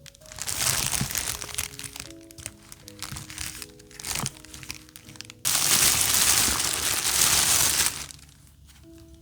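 Crinkling and rustling of craft materials being handled: scattered crinkles in the first two seconds, then a loud, steady rustle from the middle lasting about two and a half seconds, over soft background music.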